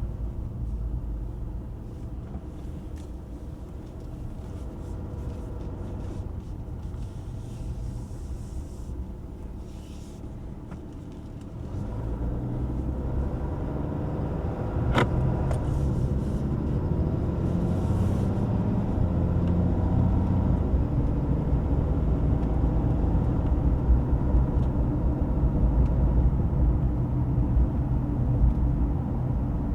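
High-output Cummins 6.7-litre inline-six turbo-diesel of a Ram 2500 on the move, a low rumble that grows clearly louder about twelve seconds in and stays loud. A single sharp click about fifteen seconds in.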